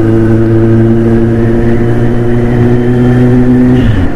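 Kawasaki Z900's 948 cc inline-four running under way through an aftermarket slip-on exhaust: a loud, steady engine note that dips briefly near the end and then steadies again.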